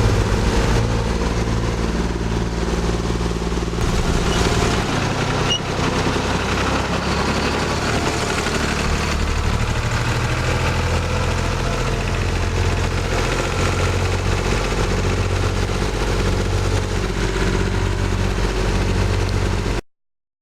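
Tractor engine running steadily as the tractor is driven, its note changing about five seconds in. The sound cuts off suddenly just before the end.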